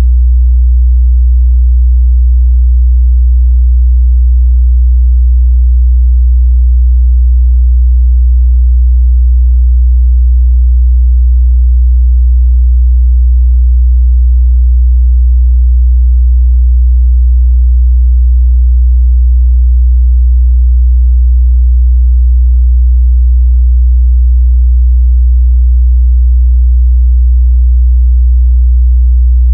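A steady, loud 61 Hz sine-wave test tone, a single low bass hum with no change in pitch or level.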